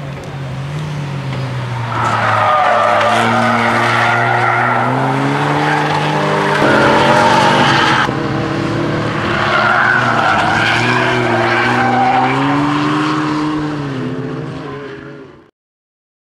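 KTM X-Bow engine pulling hard under full throttle, revs climbing, dropping at a gear change about eight seconds in, then climbing again. The sound fades and cuts off near the end.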